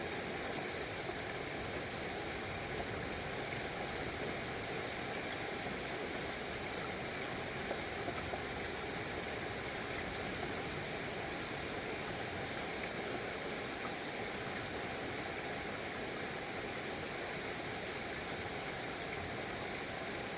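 Steady rainfall, an even hiss that holds level throughout.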